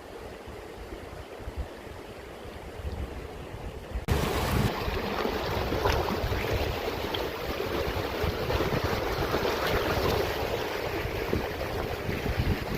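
Rushing water of a mountain stream, a steady noisy wash with wind buffeting the microphone. It gets abruptly louder and fuller about four seconds in.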